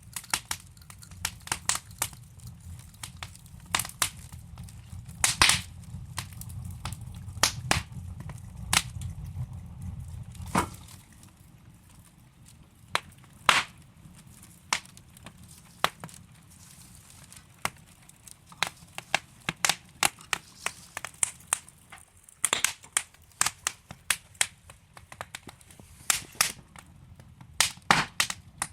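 Wood logs burning in a fireplace, crackling with sharp, irregular pops and snaps. A low rumble under the crackle lasts for about the first ten seconds, then drops away.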